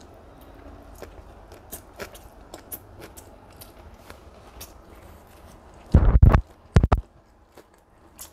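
Close-up mukbang eating sounds: chewing with many small clicks from the mouth, and two loud, dull low thumps about six and seven seconds in.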